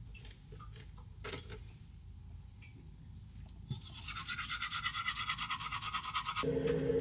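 A few faint clicks, then a spell of rapid brushing strokes, about six a second, like a toothbrush scrubbing. Near the end the strokes stop and a steady low hum begins.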